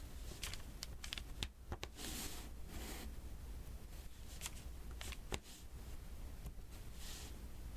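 Diamond painting drills being tapped onto the sticky glue canvas with an applicator pen: scattered small sharp clicks, with two longer rustling, scratchy sounds, one about two seconds in and one near the end.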